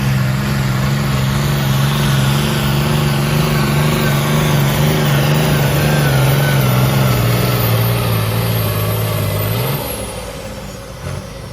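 A pulling tractor's engine running hard at steady high revs under load, then dropping away near the end as the revs fall off.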